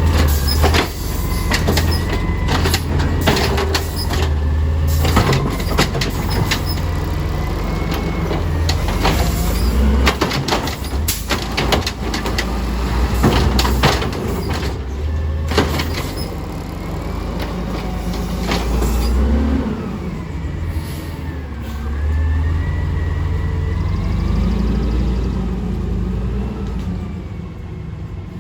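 A small automated side-loader garbage truck with its diesel engine running loudly. For roughly the first half there are repeated sharp metallic clanks and bangs, typical of the lift arm handling and dumping a cart into the hopper. Later come rising and falling whines as the engine revs.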